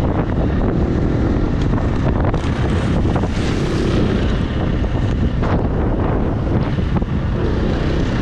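Heavy wind buffeting a helmet-mounted action-camera microphone while riding a dirt bike, with the engine running underneath and a few brief knocks from the bike over rough ground.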